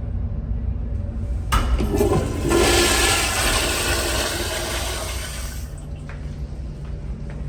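An American Standard Afwall urinal flushing: a sharp start about one and a half seconds in, then a loud rush of water for about three seconds that fades away.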